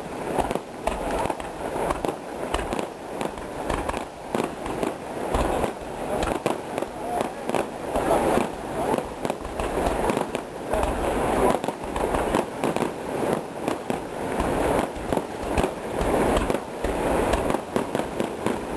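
Fireworks display: a dense, continuous barrage of rapid bangs and crackling reports, many per second, with no let-up.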